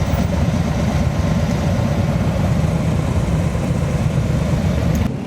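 Motorcycle engines idling, a steady low rumble that cuts off suddenly just before the end.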